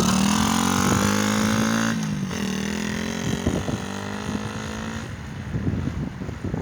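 SkyTeam Monkey mini motorcycle's single-cylinder four-stroke engine accelerating away, its pitch rising, dropping at a gear change about two seconds in, then climbing again and growing fainter near the end.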